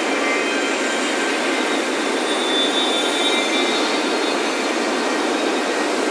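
Ocean surf breaking on a beach as a steady, even wash of noise, with faint wind chime tones ringing now and then above it.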